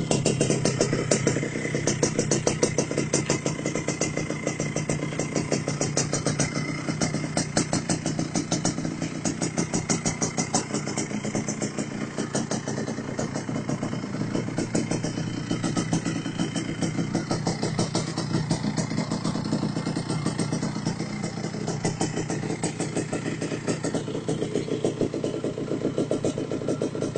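Yamaha RX-King motorcycle's 135 cc two-stroke single-cylinder engine idling steadily through its exhaust, with a rapid, even run of exhaust pulses.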